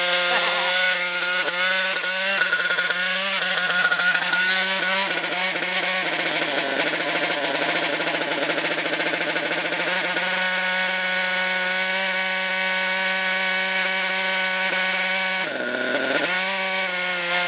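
Nitro glow engine of a CEN Genesis GST 7.7 RC monster truck running at a steady high-pitched buzz. It wavers in pitch for the first few seconds, then sags briefly and picks back up near the end.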